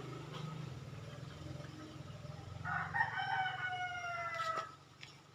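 A rooster crows once, a drawn-out call slightly falling in pitch about three seconds in, over the low running of the Suzuki Satria's two-stroke engine, which fades away near the end.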